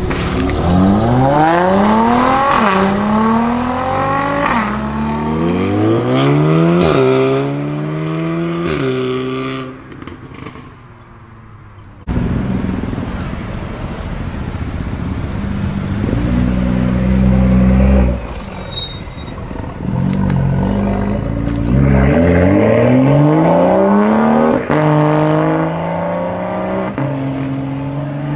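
A Mercedes C-Class sedan accelerating hard away, its engine note rising and dropping back at about four quick upshifts. Then a BMW M2's straight-six engine runs low and steady before revving up hard through the gears with quick upshifts as the car pulls away.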